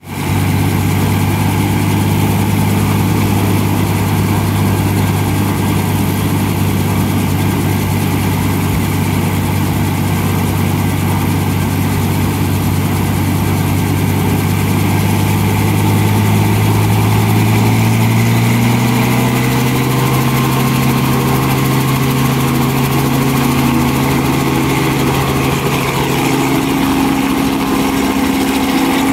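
Crop-spraying helicopter running loud and steady, its engine and rotor pitch rising in a slow glide a little past halfway through and again near the end.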